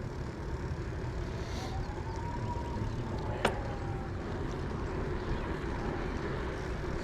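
Steady low rumble of wind and road noise while riding a bicycle, with a faint whine that rises and falls in the middle and one sharp click about three and a half seconds in.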